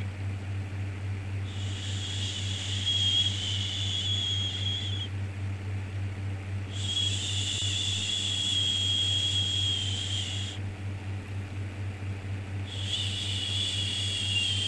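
Long soothing 'shhh' shushing sounds, three in a row, each lasting about three and a half seconds with short pauses between. A steady low hum continues underneath.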